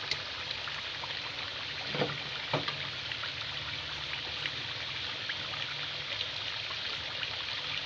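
Chicken pieces frying in ghee with onion, yogurt and spices in a large pan, a steady bubbling sizzle with fine crackles. Two soft knocks about two seconds in.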